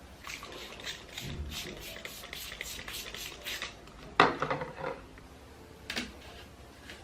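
Household cleaning sounds: a quick run of short rubbing strokes, about four a second, then a sharp knock of a hard object set down about four seconds in, and a lighter click near the end.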